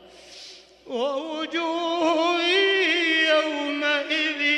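A man's voice chanting Quranic recitation (tajwid). A quick breath in, then from about a second in a long, melodically ornamented held phrase.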